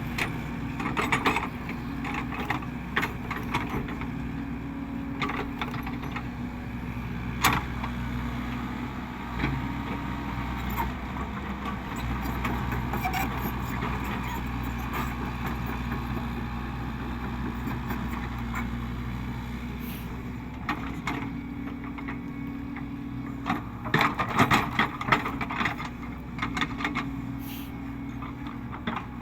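Caterpillar 307E2 mini excavator's diesel engine running steadily under work, with scattered knocks and scrapes from the machine, a burst of them about 24 seconds in.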